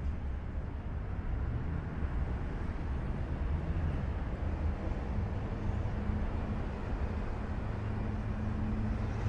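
Steady low rumbling noise that starts abruptly, with a faint steady hum running through it.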